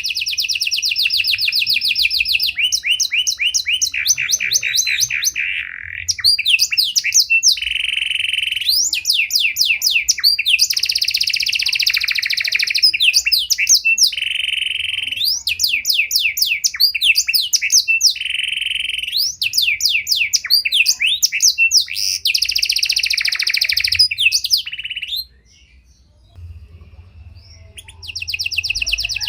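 Domestic canary (pied 'panda' canary) singing a long song of rapid trills and rolling repeated phrases. Near the end it pauses for about two seconds, then starts again.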